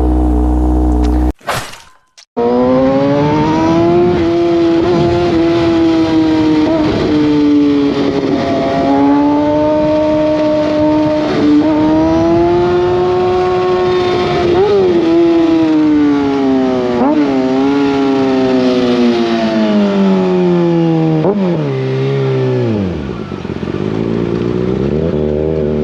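Sport motorcycle engine under way at high revs, its note slowly rising and falling, with a few quick rev blips. Near the end it falls away and settles to idle.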